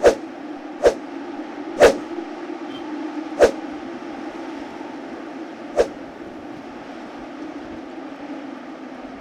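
A steady low rumble with five sharp knocks at uneven intervals, the last about six seconds in, after which only the rumble continues.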